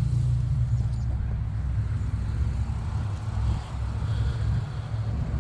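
A Lexus RC350's 3.5-litre V6 idling steadily, a low even hum.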